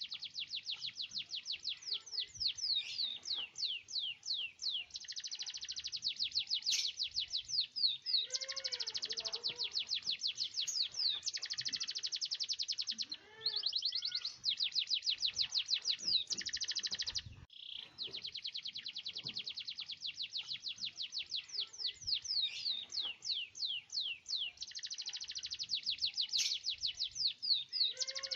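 Domestic canary singing a long, almost unbroken song. It alternates fast, dense rolling trills with slower series of sharp sweeping notes, with short breaks about 13 seconds in and again about 17 seconds in.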